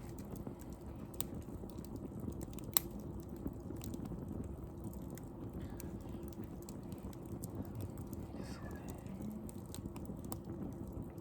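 Wood fire crackling, with scattered sharp pops and one louder pop about three seconds in.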